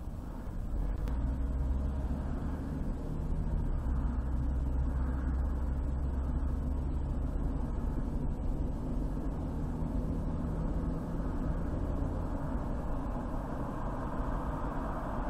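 Car driving on a highway: a steady low rumble of road and engine noise that grows louder about a second in.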